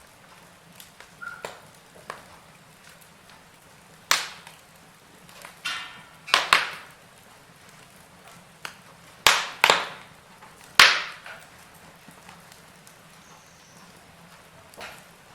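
Wood fire in a fireplace crackling, with irregular sharp pops. The loudest come about four seconds in, around six and a half seconds, a close pair near nine and a half seconds, and one near eleven seconds, all over a faint steady hiss.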